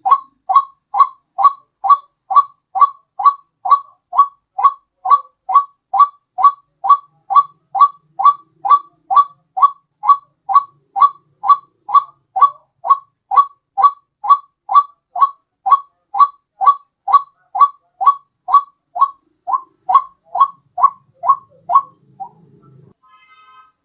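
White-breasted waterhen (ruak-ruak) call played as a bird lure: a loud, monotonous series of short, identical notes at about two a second, breaking off briefly near the end before starting again.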